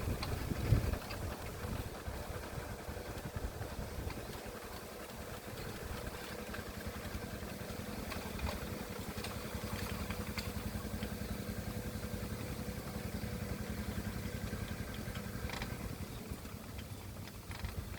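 Engine of a hand tractor (two-wheel rice-field plowing machine) running steadily, with a sharp knock just under a second in.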